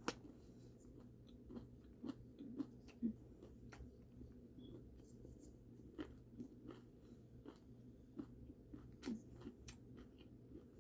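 A person chewing and biting fried food close to the microphone: soft, faint crunches and wet mouth clicks, a few a second, with a few louder bites.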